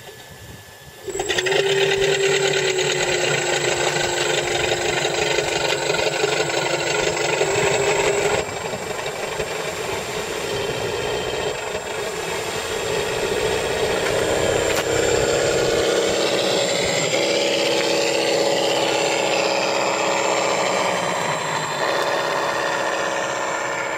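Benedini sound module on a quarter-scale Hangar 9 Super Cub RC model playing a simulated aircraft engine sound through its speaker. The sound comes on suddenly about a second in and runs steadily, drops a little in level about eight seconds in, and its pitch wavers up and down in the second half.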